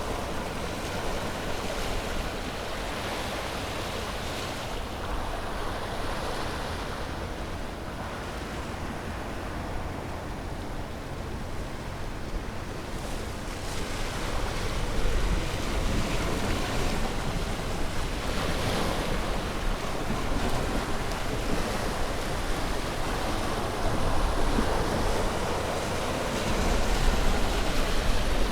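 Ocean surf breaking and washing ashore, a continuous rush with swells every few seconds. It is softer in the first half and grows louder about halfway through.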